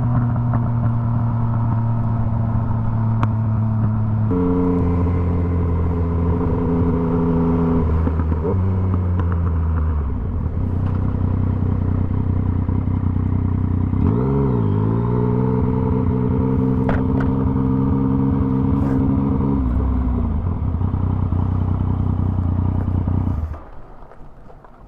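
Motorcycle engine running under way, its pitch stepping up and down a few times as it changes gear, with a brief dip and recovery about two-thirds through. The sound cuts off abruptly shortly before the end.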